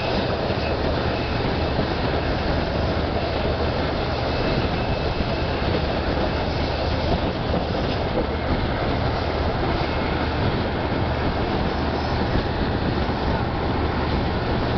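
Steady running noise of a passenger train heard from aboard a carriage at an open window: wheels rolling on the rails with a low, even rumble.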